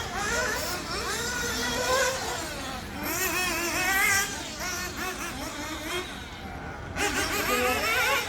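Several small nitro engines in RC buggies revving high and wavering up and down in pitch as the cars race around the track.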